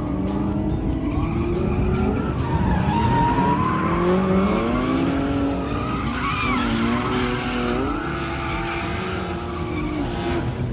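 A drifting car's engine revving up and down while its tires skid and squeal.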